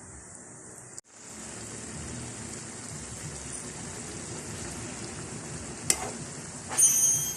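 Food sizzling in a hot pan as it is stirred, starting after a brief break about a second in. There is a sharp clink about six seconds in, then a louder scrape with a ringing tone near the end.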